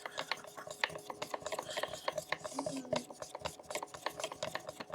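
Freshly catalysed epoxy primer, thinned with acetone, being stirred: a quick, irregular run of small scraping clicks, with a faint steady hum underneath.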